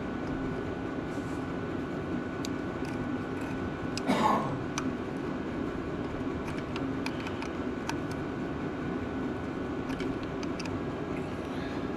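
Scattered light metallic clicks and clinks of hand tools, a socket wrench on the starter mounting bolts, over a steady low background noise, with one louder scraping clatter about four seconds in.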